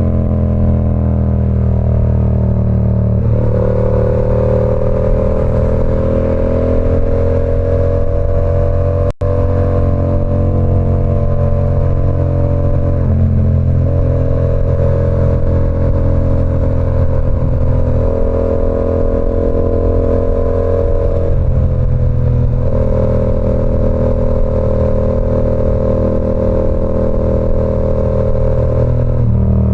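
Yamaha R7's 689 cc parallel-twin engine running loud through an SC Project CR-T exhaust on the move. It holds fairly steady engine speeds, with the pitch shifting several times as the revs change. The sound cuts out for an instant about nine seconds in.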